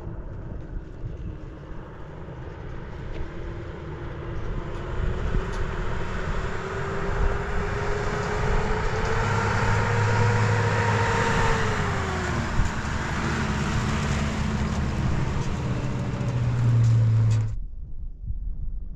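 A motor vehicle engine running and drawing near, its noise swelling with a slowly rising tone that drops away again, then cutting off abruptly near the end.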